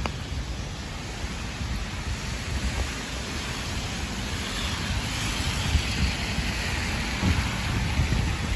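Heavy rain hissing steadily on wet pavement, with wind buffeting the microphone in an uneven low rumble. The hiss grows louder through the second half.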